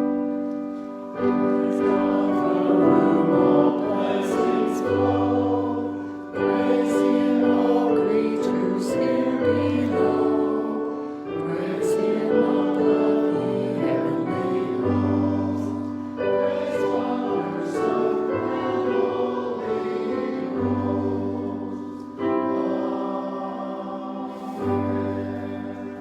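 Choral music sung in phrases a few seconds long, fading out near the end.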